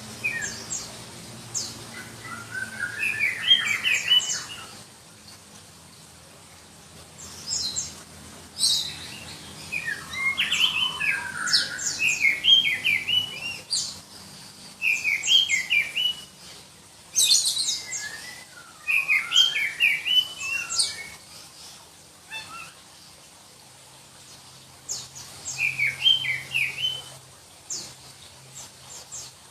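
Black-breasted Oriental magpie-robin (kacer dada hitam) singing shrill phrases of quick, varied whistled notes, about half a dozen bursts with short pauses between them.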